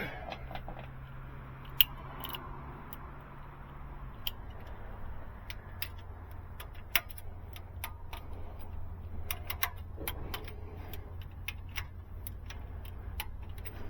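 Socket wrench clicking in short, scattered spells as bolts in the engine's overhead are tightened to 25 foot-pounds, over a steady low hum that drops in pitch about four seconds in.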